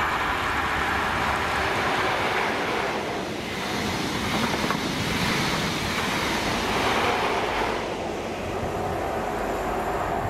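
A Network Rail New Measurement Train, an HST set with Class 43 diesel power cars at each end, passes at speed. Power car engine and wheel-on-rail noise carry on steadily as the power cars and coaches go by.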